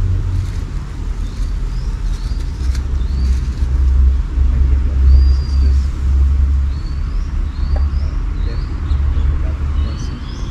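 Birds chirping outdoors: short rising or arched chirps come every second or so. Under them runs a loud, uneven low rumble, which is the loudest sound.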